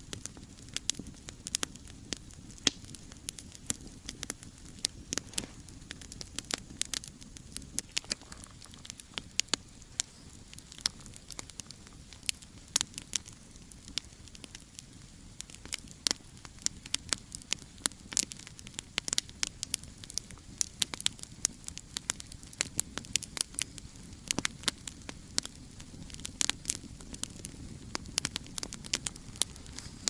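Wood campfire crackling and popping: a constant run of sharp, irregular snaps over a low, steady rush of burning.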